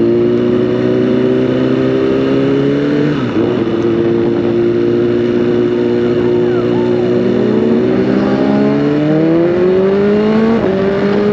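BMW S1000RR inline-four engine pulling under acceleration. Its pitch holds, drops sharply at an upshift about three seconds in, climbs steadily as speed builds, then drops again at another upshift near the end.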